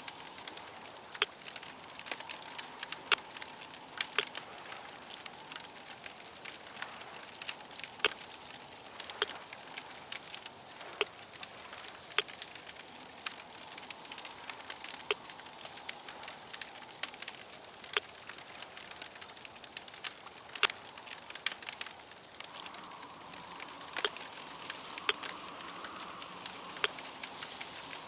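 Crackling fire: a steady hiss with frequent sharp, irregular pops and snaps.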